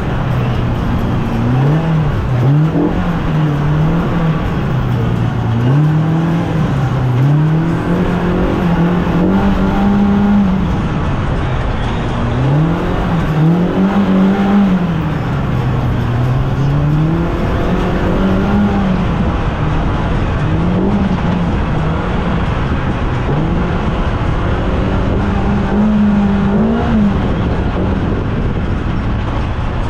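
Polaris RZR Pro R UTV's four-cylinder engine being driven hard, its pitch repeatedly rising and falling as the throttle is opened and backed off.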